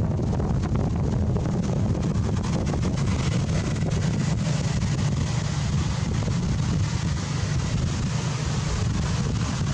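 Strong wind buffeting the microphone: a steady, loud low rumble with a thin hiss above it.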